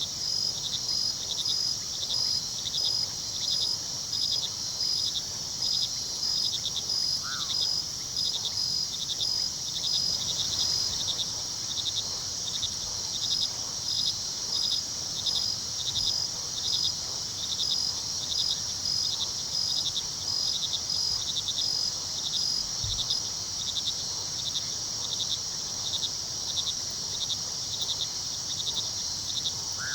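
Crickets chirping in a steady, evenly pulsed chorus, about two to three chirps a second, over a low rush of flowing river water. A single short call rises through it about seven seconds in.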